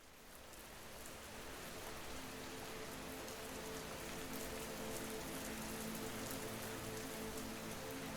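Steady rain falling, fading in over the first couple of seconds and then holding even, with faint steady tones underneath.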